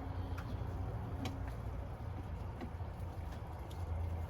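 A few faint clicks and light scrapes as a ceiling light fixture is twisted loose on its loosened mounting screws, over a steady low background hum.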